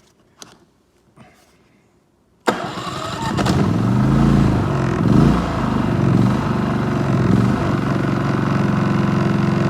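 A few faint clicks, then about two and a half seconds in a portable generator's engine starts at once, its speed swinging up and down for several seconds before it settles into a steady run.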